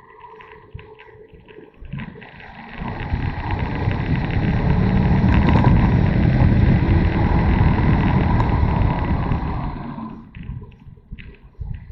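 Riding noise from a motorcycle, engine and wind rush on the mic, swelling to loud a couple of seconds in, holding for several seconds, then fading again near the end.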